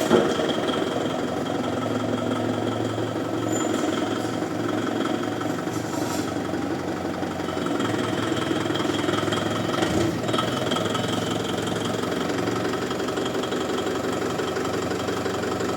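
Forklift engine running steadily at low speed, with a sharp clunk right at the start and a smaller knock about ten seconds in.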